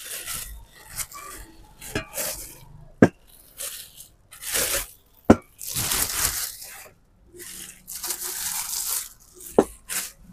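Handling noise of unpacking stainless steel mixer-grinder jars: bursts of plastic wrapping crinkling and tearing, with four sharp knocks of metal on a hard surface.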